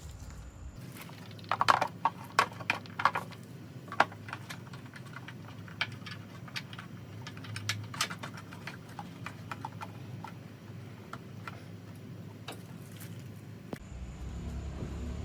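Irregular clicks and knocks, a cluster of sharper ones between about one and a half and four seconds in, then sparser, over a steady low hum.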